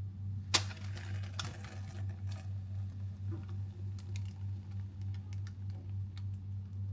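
Light kitchen clicks and taps, with one sharp click about half a second in and scattered softer ones after, over a steady low hum.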